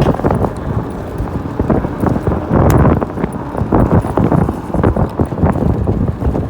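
Wind buffeting the microphone with irregular knocks and rattles from an electric scooter being ridden over rough ground.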